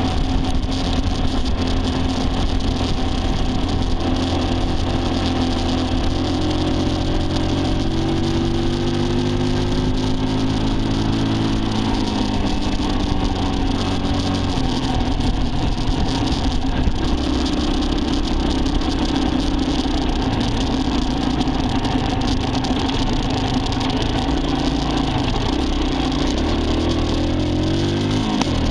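Motor vehicle engine running under way over a steady rush of wind and road noise. Its pitch climbs slowly, drops about twelve seconds in, climbs again and dips once more near the end.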